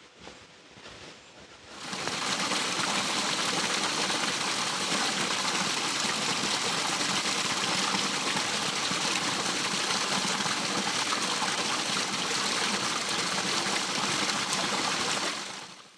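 Waterfall's rushing water, a loud, steady rush that cuts in about two seconds in and fades out just before the end.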